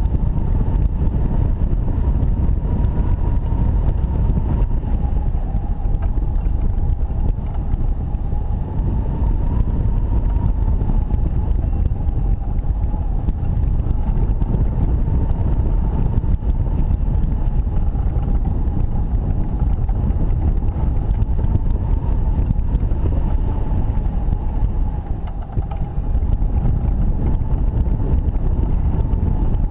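Strong wind rushing and buffeting over the microphone of a hang glider in flight, with a steady whistle that wavers slightly in pitch.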